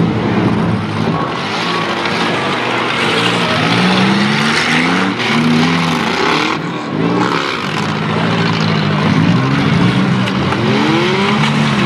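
Several small-car engines revving up and down over one another as the cars ram and reverse in a demolition derby heat.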